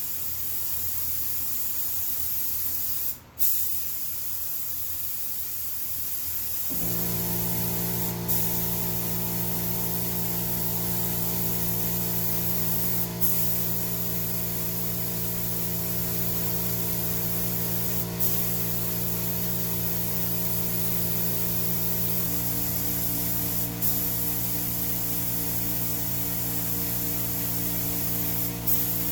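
Spray gun hissing steadily as it lays down a PVA mold-release coat in slow passes, with a brief break about three seconds in. About seven seconds in, a motor starts humming steadily underneath the hiss, and short ticks come about every five seconds.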